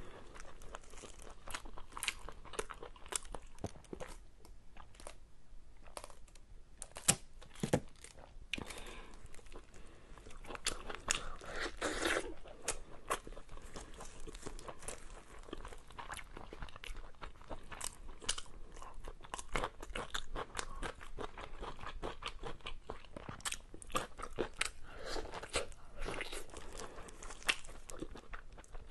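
A person chewing and biting into a piece of glazed meat, picked up close by clip-on microphones: wet chewing with many small crunchy clicks throughout, and a few louder crunches about seven and eight seconds in.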